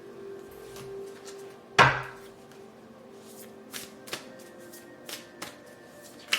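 Tarot cards being handled on a table: one sharp knock about two seconds in, then several lighter taps and clicks.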